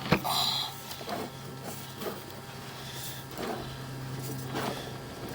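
Sewer inspection camera rig: a steady electrical hum, with a sharp click at the start and scattered clicks and scrapes as the push cable is fed along the pipe.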